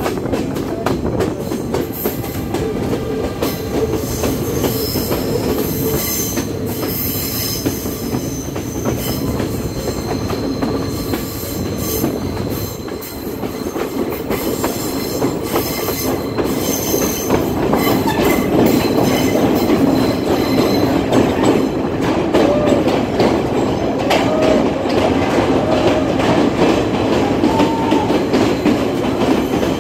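Passenger train running on a winding mountain line, heard from beside the carriages: a steady rumble of wheels on rail with frequent clicks and thin, high flange squeal on the curves. It gets louder in the last third as the train runs into a tunnel.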